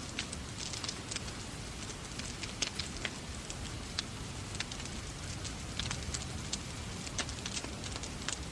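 Wood fire in a fireplace crackling with irregular sharp pops, over a steady rushing of rain.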